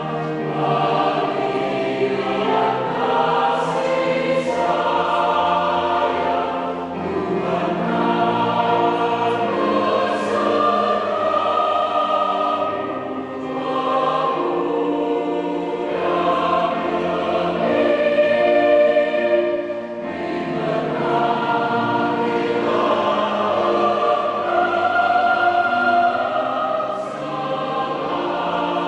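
Large mixed choir singing a hymn in several voice parts, sustained chords moving from one to the next without a break.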